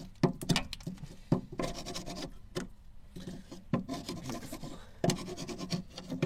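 Irregular scraping and scrubbing strokes against rusty, crusted brake hardware as the dirt is cleaned off so the bolts can be undone.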